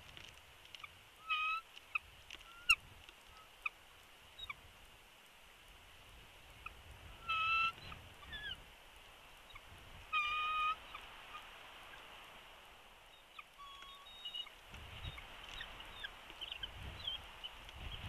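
Birds calling: a few clear calls of about half a second each, the loudest about a second in and twice more in the middle, among fainter short chirps. Wind rumbles on the microphone, stronger in the last few seconds.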